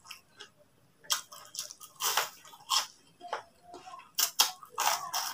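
Close-up crunching and chewing of crispy fried tofu: a run of sharp crackling crunches, with the loudest bites about two seconds in and again from about four seconds.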